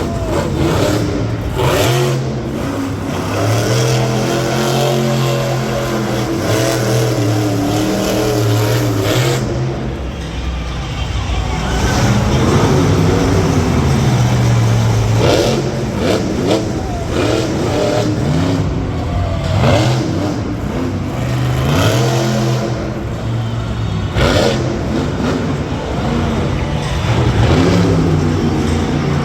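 Monster truck engines revving hard, the pitch rising and falling again and again as the throttle is worked.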